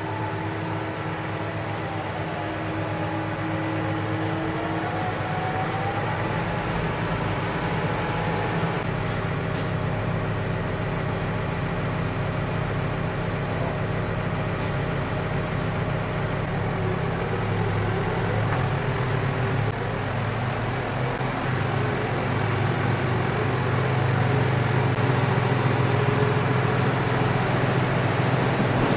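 Large John Deere tractor's diesel engine running steadily, growing louder near the end.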